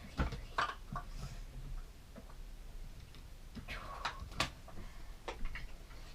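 Plastic toy train track pieces clicking and knocking as they are handled and pushed together, a scattering of sharp irregular clicks with a cluster around four seconds in.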